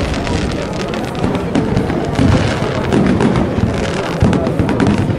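Fireworks display: aerial shells going off in quick succession, low booms mixed with many sharp crackling pops.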